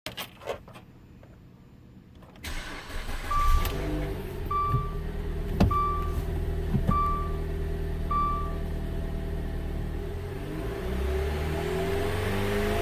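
2013 Dodge Dart's 2.0-litre four-cylinder engine cranking and starting about two and a half seconds in, then idling, while the car's warning chime beeps five times. Near the end the engine speed rises a little.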